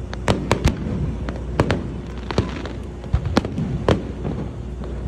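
Aerial fireworks bursting in a string of about seven sharp bangs at irregular intervals, several close together in the first second, over a steady low background rumble.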